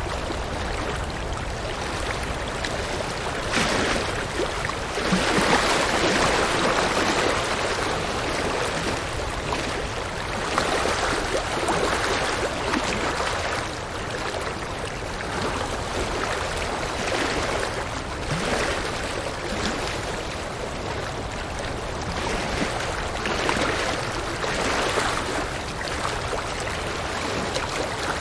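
River water flowing over rocks: continuous rushing and gurgling that swells and eases every few seconds.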